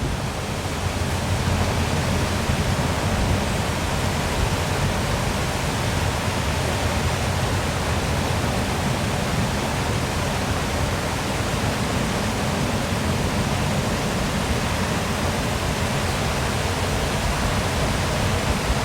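Waterfall pouring with a steady, unbroken rush of falling water.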